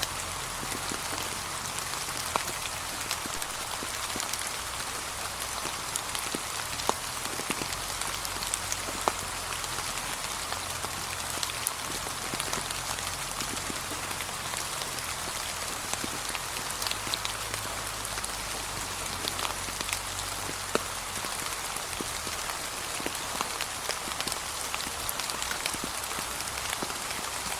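Steady light rain falling on fallen leaves, a continuous hiss dotted with many individual drop ticks.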